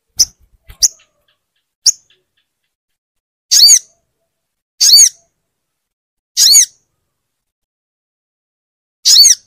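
Crested jay (sogon) calling: three short, sharp notes in the first two seconds, then four longer calls at uneven gaps. Each longer call lasts about a third of a second and rises and falls in pitch.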